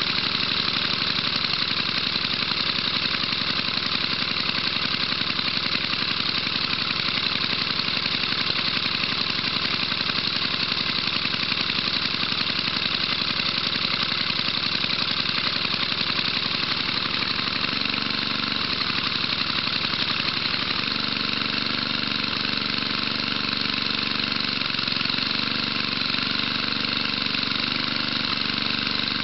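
1975 Tecumseh 5 hp single-cylinder four-stroke engine running steadily, warming up after a cold start. Its note shifts slightly about two-thirds of the way through.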